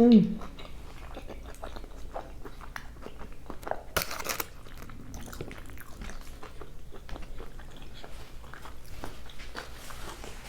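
Close-up eating sounds of a person chewing a mouthful of carne asada fries: many small wet mouth clicks and smacks, with one louder, rustly crunch about four seconds in.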